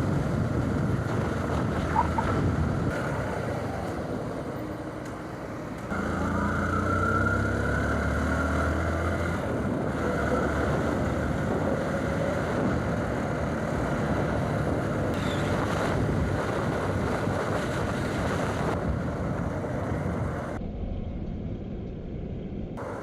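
Motorcycle riding along a highway: its engine running under steady wind and road noise. About six seconds in, the engine drone becomes louder with a low hum; near the end it is quieter.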